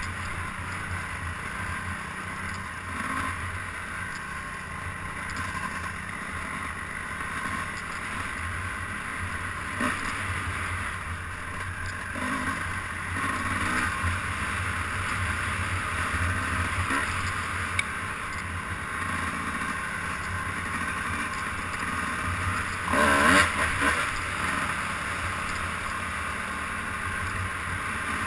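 A vehicle's engine running steadily on the move, with a louder surge of engine and wind noise a little over twenty seconds in.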